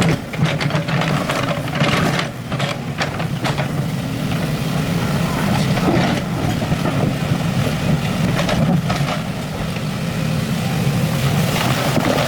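Excavator's diesel engine running steadily under load, with repeated clanks and scrapes as the bucket works rock and soil.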